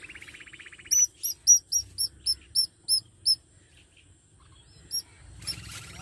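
A bird chirping: a fast buzzy trill, then a run of nine sharp, high chirps at about three a second, with one more chirp a second and a half later. A brief noisy rustle comes near the end.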